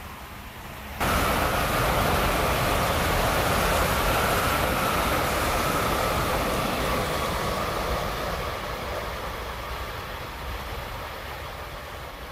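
Tokaido Shinkansen high-speed train running past: a steady rushing noise with a low rumble underneath. It starts abruptly about a second in and slowly fades over the last few seconds.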